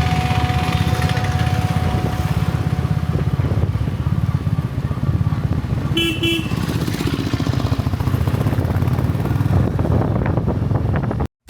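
Royal Enfield motorcycle engine running steadily under way, with a low pulsing beat. A vehicle horn toots briefly about six seconds in.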